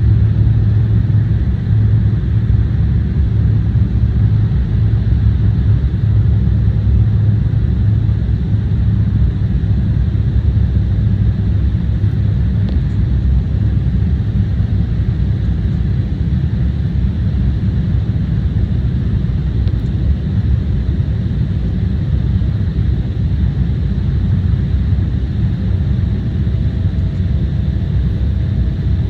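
Steady low rumble of jet engines and airflow heard inside an airliner's passenger cabin. A faint steady tone joins near the end.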